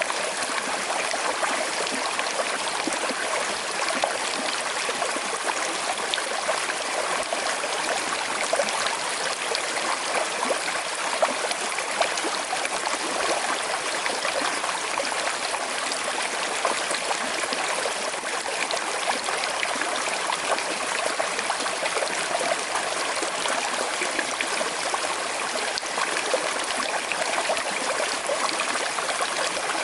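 Small river flowing steadily over stones with a gentle current, a continuous rush of water with small splashes and trickles.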